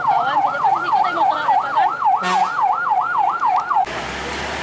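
An electronic siren in a fast yelp, its pitch rising and falling about four times a second. It cuts off suddenly near the end and gives way to a steady rushing noise.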